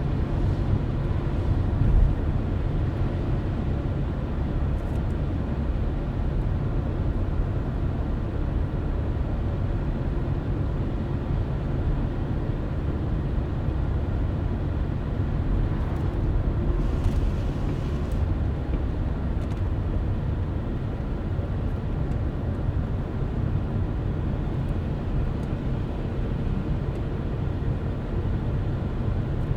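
Car driving at a steady pace: a steady low rumble of engine and tyres on the road, with a brief thump about two seconds in and a short hiss around seventeen seconds.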